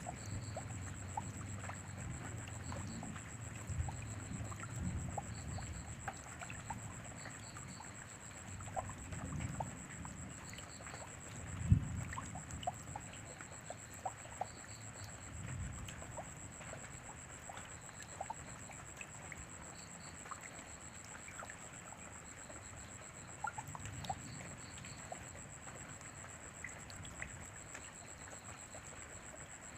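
Rain falling, with scattered close drips and trickling water, some low rumbles in the first few seconds and a single sharp low thump about twelve seconds in. A faint steady high whine runs underneath.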